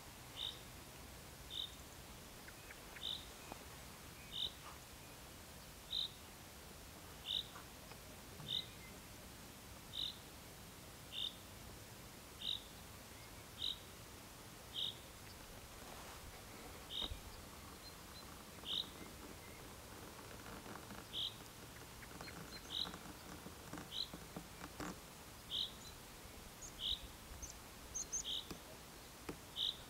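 A bird repeating a short, high chirp about once a second, with faint outdoor background noise.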